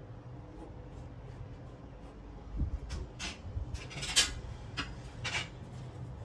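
Kitchen handling sounds: a soft knock, then three short scrapes about a second apart, the middle one the loudest.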